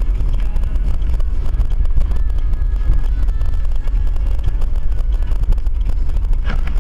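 Car on the move at speed: a steady low rumble of engine and road noise with some wind.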